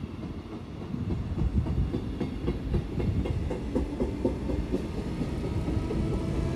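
SBB electric regional passenger train running past, its wheels clattering rhythmically over rail joints, getting louder about a second in. A steady wheel squeal sets in near the end.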